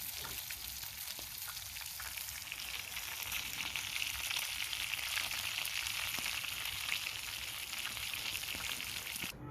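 Bacon-wrapped hamburgers sizzling in a cast iron pan over a campfire: a dense, crackling sizzle that grows a little louder about three seconds in and cuts off suddenly near the end.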